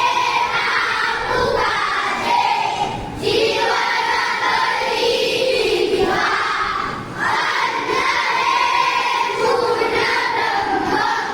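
A crowd of children singing and shouting together in loud chanted phrases, with short breaks about three and seven seconds in.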